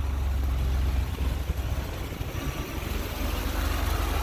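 A 1987 BMW M6's straight-six engine idling with a steady low rumble.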